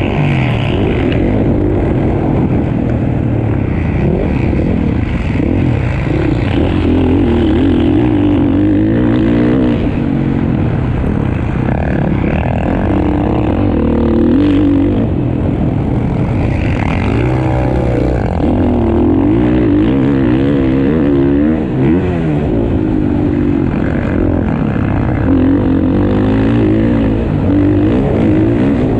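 Several motocross bikes racing round a dirt track, their engines revving up and down repeatedly as riders work the throttle through the corners and jumps.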